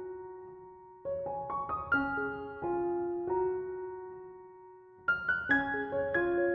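Soft background piano music: short phrases of single notes, each ringing and dying away, with a pause about four seconds in before a new phrase begins.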